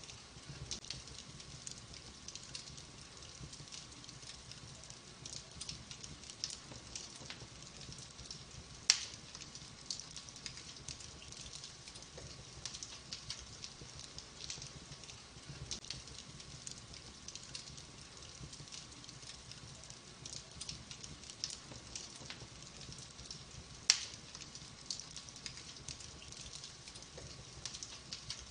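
Burning logs in a wood fire crackling steadily with many small pops, and two sharp louder snaps, one about nine seconds in and one near the end.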